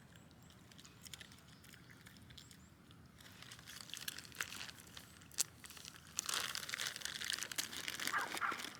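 Crinkling and rustling, quiet at first, starting about three seconds in and growing louder about halfway through.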